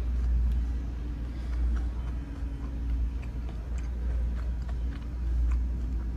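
A person chewing a bitten chicken nugget, with faint scattered crunches and mouth clicks, over a steady low rumble.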